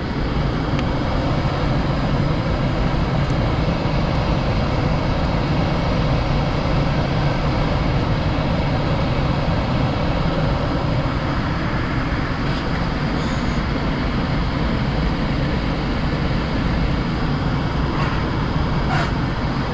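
Gas furnace's blower fan running steadily, a constant whooshing hum, during the fan purge before the heat sequence starts.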